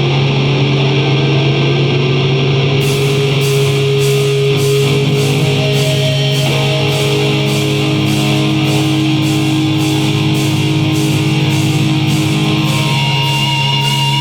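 Heavy metal band playing live: distorted electric guitars hold a low sustained chord with a note bent upward near the start. About three seconds in, cymbal strikes come in at an even beat of roughly two a second.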